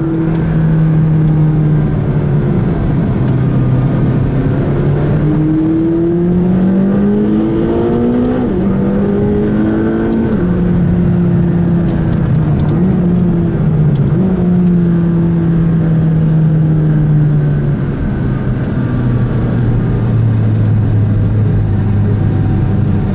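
McLaren 570GT's twin-turbo V8 heard from inside the cabin as the car is driven up a mountain road. The engine pitch climbs for several seconds, drops twice in quick succession about a third of the way in as it shifts up, and settles to a lower, steady note near the end, over road noise.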